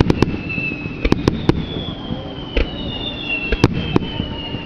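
Fireworks display: irregular sharp bangs of shells bursting, several close together, over long high whistling tones that slowly fall in pitch.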